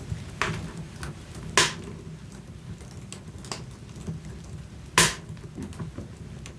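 Wood fire in a fireplace crackling over a low steady rumble of the flames, with two sharp, loud pops, one about a second and a half in and one about five seconds in.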